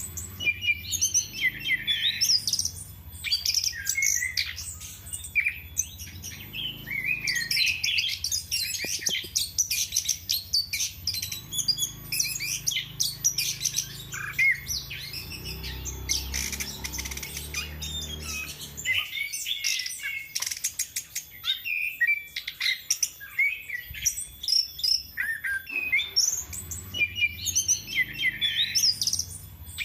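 Chestnut-capped thrush (anis kembang) singing continuously, a varied run of chirps, whistles and rapid note series with brief pauses.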